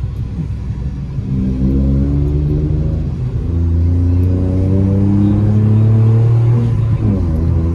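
Vauxhall Corsa D engine with a custom cat-back exhaust, accelerating under load. The revs climb steadily for about five seconds, then drop sharply on an upshift about seven seconds in and pick up again.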